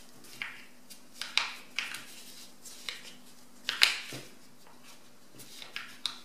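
A sheet of paper being folded and creased by hand: irregular crinkles and rustles, the loudest about four seconds in, over a faint steady hum.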